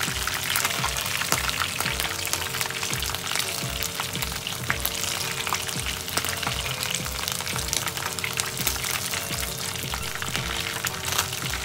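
Chicken pieces shallow-frying in oil in a frying pan: a steady crackling sizzle. Background music with a simple melody and a regular beat plays over it.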